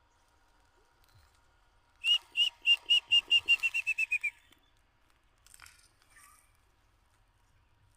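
A bird calling: a series of about a dozen clear whistled notes that speed up and drop in pitch toward the end, followed by a couple of faint short sounds.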